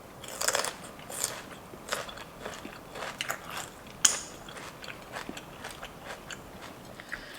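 Close-miked chewing of crunchy raw celery: irregular crisp crunches and crackles, with the sharpest crack about four seconds in.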